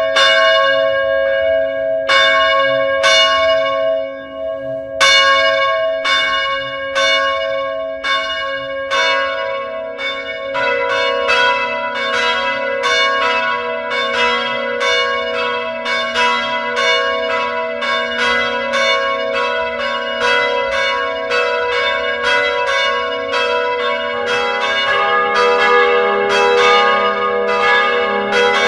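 Church bells ringing: single strikes about once a second at first, then from about nine seconds in a faster run of overlapping strikes from several bells, each ringing on.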